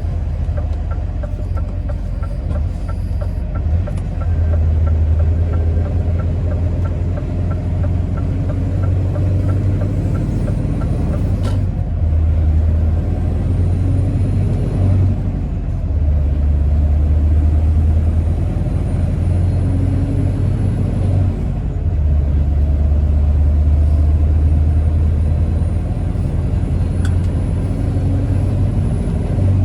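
Scania R650's 16-litre V8 diesel engine running on the road, a deep drone that swells and eases every few seconds. A faint, regular light ticking runs through the first ten seconds or so, and there is a single sharp click about eleven seconds in.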